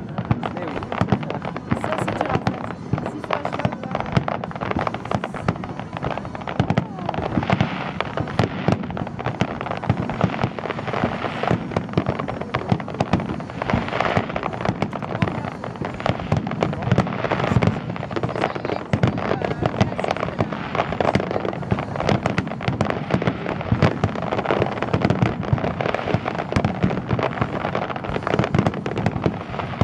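Aerial fireworks display: a dense, continuous barrage of shell bursts, bangs and crackling, with no let-up.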